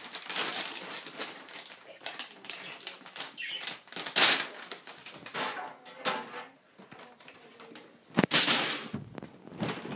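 Newspaper rustling and crinkling as it is handled and laid into a bird cage tray, in irregular crackles, with louder crumples about four seconds in and about eight seconds in.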